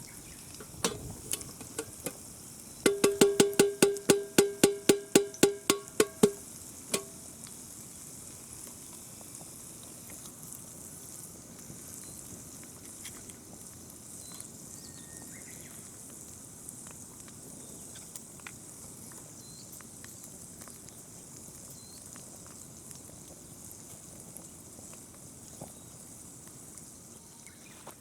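A few light knocks, then a fast run of about sixteen ringing metallic strikes at one pitch, about five a second, like a hammer tapping on metal; one more strike follows, then only a faint steady hiss.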